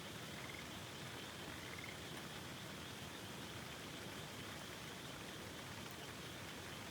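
Steady rush of river water, with a frog giving two short trilled calls in the first two seconds.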